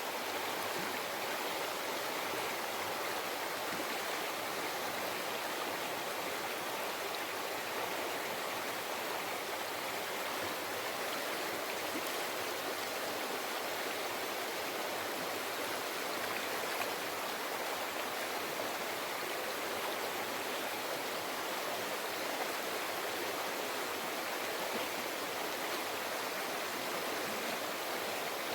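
A mountain river flowing over rocks, a steady rushing babble of water.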